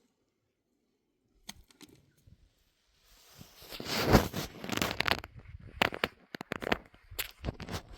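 Near silence with a few clicks, then from about three seconds in a dense, irregular run of rustling and crunching noises with sharp clicks.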